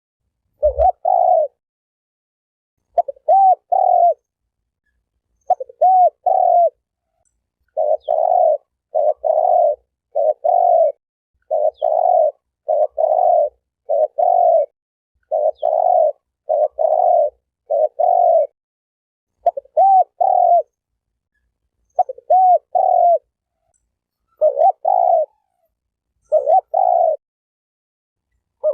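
Spotted dove cooing in repeated phrases of two or three short low coos, a new phrase every second or two, with complete silence between phrases as in an edited, looped lure recording.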